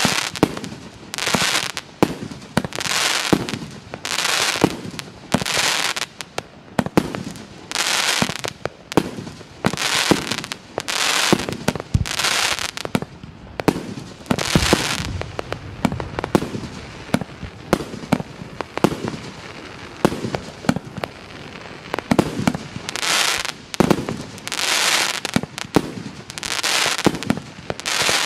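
A 50-shot fireworks cake (FP B333 'Baikonur') firing shot after shot. Sharp bangs come roughly once a second, each followed by about half a second of crackling hiss from the breaking stars. The shots thin out and grow quieter for a few seconds in the middle before picking up again.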